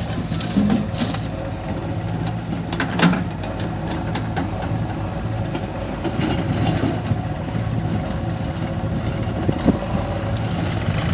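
Heavy diesel engine running steadily, with a few short sharp knocks over it, the loudest about three seconds in.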